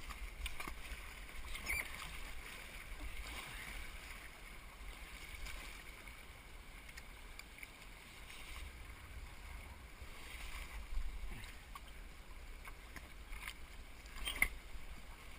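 Canoe being paddled on a moving creek: a few faint paddle splashes and drips at irregular intervals over the steady sound of moving water.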